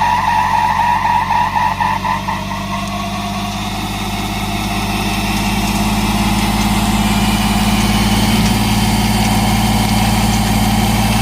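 A pickup's V6 gas engine held at high revs while a rear tire spins in a one-wheel peel, with a high squeal strongest in the first couple of seconds; the engine note climbs slowly and stays hard on until it drops off just after the end.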